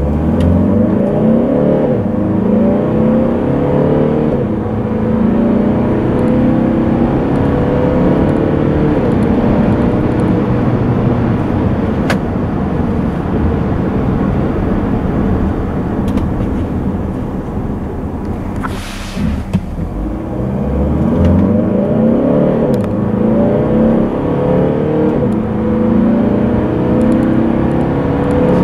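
Volvo XC60 D4's 2.0-litre four-cylinder twin-turbo diesel accelerating hard, heard inside the cabin. The engine note rises again and again as the automatic gearbox shifts up through the gears. About two-thirds of the way through, the engine sound drops briefly under a short hiss, then it pulls again.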